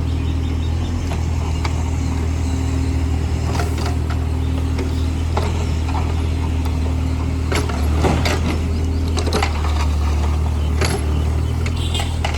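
Diesel engine of a mini JCB digger running steadily under work, with scattered metallic clanks and knocks, thickest about two-thirds of the way through.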